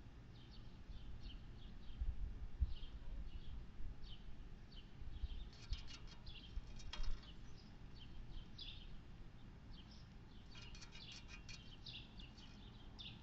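Small birds chirping in short, scattered high notes, with a few bursts of rustling and some low thumps.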